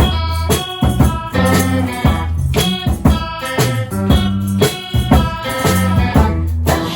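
A live rock band playing an instrumental passage: a steady drum beat over bass and sustained instrument chords, with no vocals.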